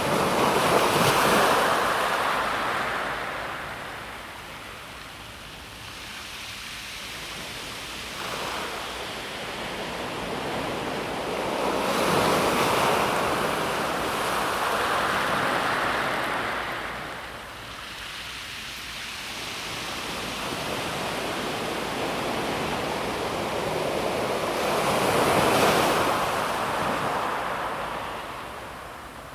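Small sea waves breaking on a pebble beach and washing back over the stones, in slow surges that rise and fall three times, roughly every twelve seconds.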